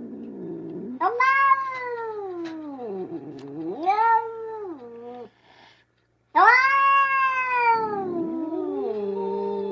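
Domestic cat meowing: a series of long, drawn-out meows that rise and then fall in pitch, with a short silent pause a little past the middle.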